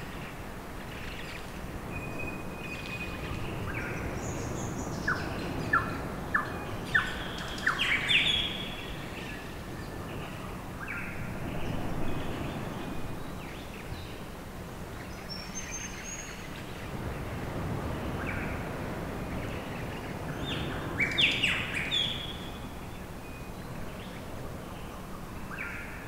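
Birds chirping in woodland over a steady low background rush. A quick run of sharp chirps comes about five to eight seconds in, and another burst comes around twenty-one seconds in.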